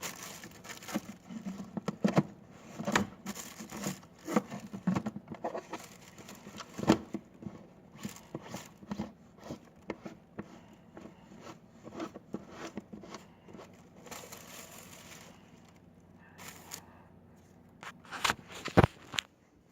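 Close-up crinkling and crackling with many sharp clicks and taps, busiest in the first several seconds and loudest in a quick cluster near the end.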